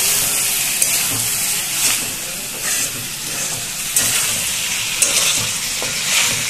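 Boiled pork pieces sizzling in hot oil with onion and tomato in a kadai, stirred with a steel spatula that scrapes and clicks against the pan about once a second over the steady hiss of frying.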